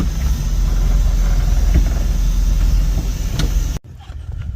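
Steady low machine rumble with a few light clicks, cutting off suddenly near the end.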